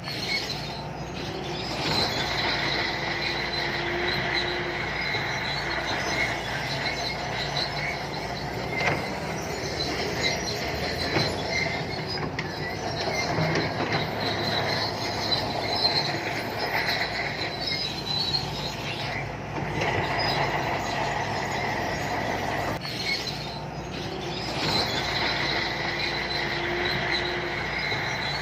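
SANTUI crawler bulldozer working, its diesel engine running steadily while its steel tracks squeal and clank as it moves.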